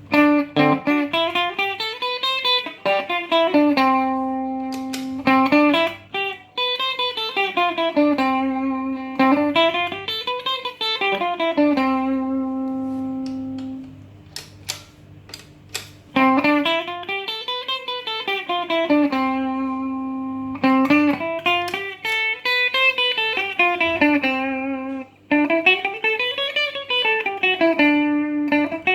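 Electric guitar played through a Mooer Black Truck multi-effects pedal: rising and falling scale runs that each settle on a held low note, with brief pauses between phrases. The notes stop without any echo trailing after them, as the pedal's delay is not working.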